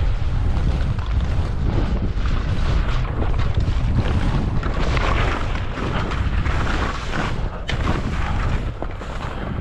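Wind buffeting the microphone during a ski descent, with the rushing hiss of skis through heavy, wet snow.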